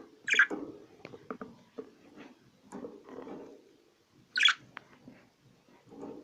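Cage birds chirping and chattering: two loud, sharp high calls, about half a second in and again about four and a half seconds in, over softer continuous low chatter and small clicks.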